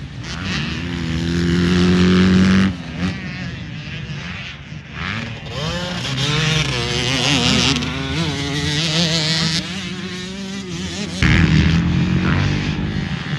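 Motocross motorcycle engines racing, revving up and down as the bikes accelerate and shift, with the engine note changing abruptly about three seconds in and again near the end.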